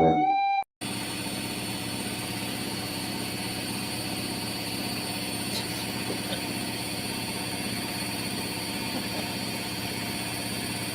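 A steady mechanical hum with an even low drone, like a running engine, holding level throughout; a snatch of flute music cuts off abruptly just before it begins.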